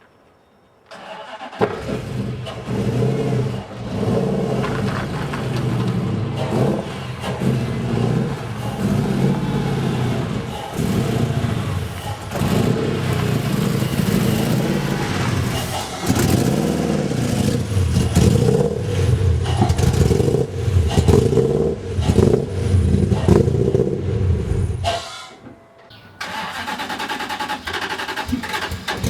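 Toyota 1UZ-FE V8 engine running and being revved as the car moves, its pitch rising and falling. It comes in about a second in, cuts out briefly near the end, then returns.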